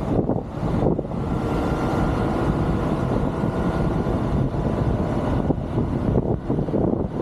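Heavy truck's diesel engine running steadily at low speed, a continuous low rumble with a faint whine above it.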